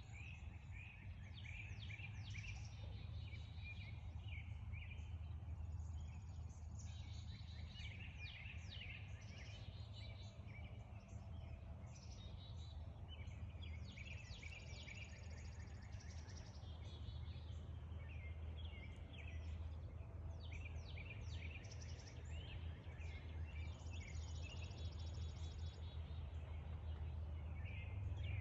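Several birds chirping and singing, with quick repeated trills and short sweeping notes overlapping throughout, over a steady low rumble.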